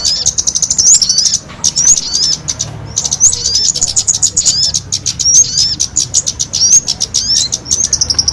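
Bird-lure recording of small songbirds calling, sogon combined with kemade: a dense run of quick, sharp, high-pitched chirps with brief pauses about a second and a half in and just before three seconds.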